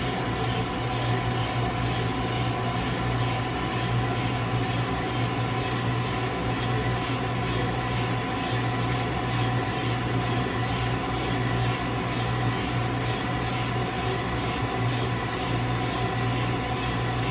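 Coffee roaster running steadily: a low, even motor hum with a few steady higher tones over it.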